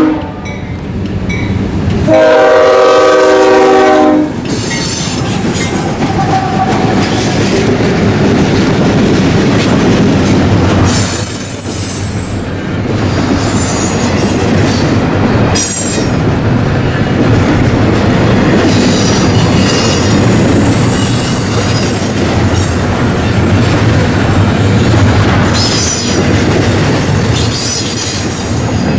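A freight locomotive's horn sounds one long blast of about two seconds, a couple of seconds in; then the train's cars roll past with a steady rumble and wheel clatter, broken by short high wheel squeals.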